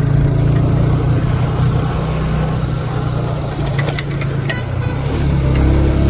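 Motorcycle engine running steadily, a low even hum, with a few light clicks about four seconds in.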